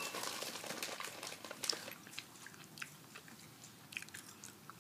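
Close-up chewing of nacho tortilla chips: a run of irregular crisp crunches, densest in the first two seconds, then sparser.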